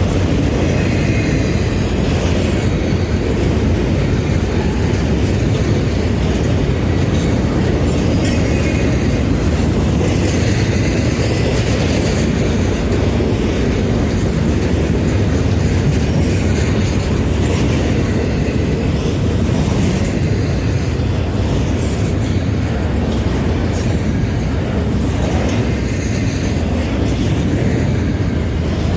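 Train running past on the rails: a steady, loud rumble of wheels and cars.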